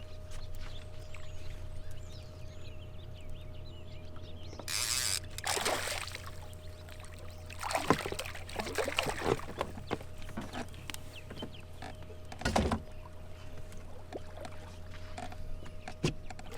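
Water splashing in several bursts as a hooked smallmouth bass is brought to the boat, with a sharp splash or knock near the end. A steady low hum runs underneath.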